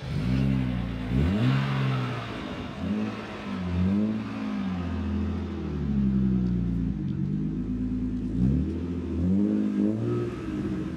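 Car engine being revved repeatedly, its pitch rising and falling again and again.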